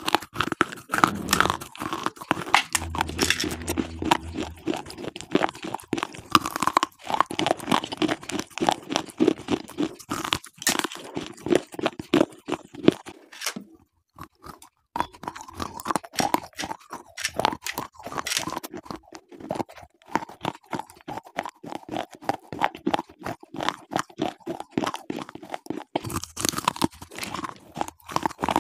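Slate pencils bitten and chewed close to the microphone: a dense run of sharp, dry crunches with a brief pause about halfway through.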